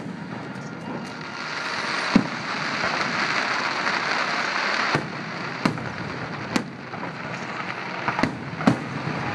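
Aerial fireworks display with shells bursting overhead: about seven sharp bangs at irregular intervals over a steady hiss, the loudest about two seconds in and near the end.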